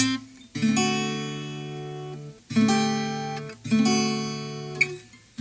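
Instrumental music: a guitar strumming three chords, each struck once and left to ring out and fade before the next.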